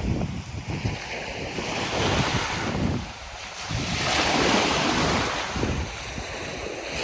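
Wind buffeting the microphone over small waves washing on the shore, swelling and easing off.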